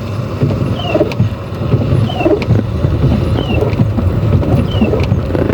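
Car windscreen wipers sweeping back and forth in heavy rain, heard from inside the cabin: a short falling squeak with a faint click about every second and a half, over the steady rumble of the car driving.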